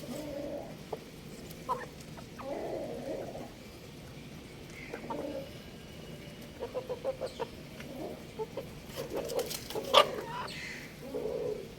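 Young rooster clucking in short low calls, with a quick run of clucks about seven seconds in. A sharp knock sounds near the end.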